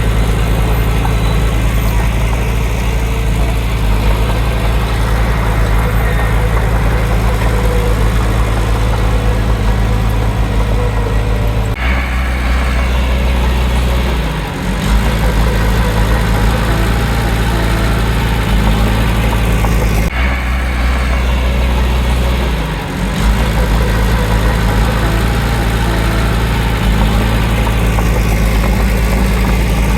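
Heavy diesel engine of a crawler bulldozer running steadily with a low drone. The engine note shifts abruptly twice, about twelve and twenty seconds in, and dips briefly a couple of seconds after each shift.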